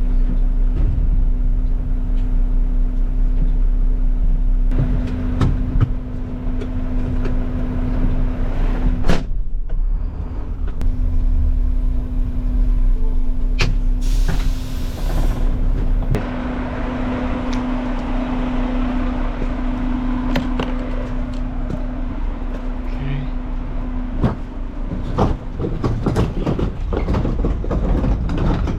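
Garbage truck's diesel engine running with a steady hum, a sharp knock about nine seconds in, and a short hiss of air about fourteen seconds in; scattered clanks and knocks near the end.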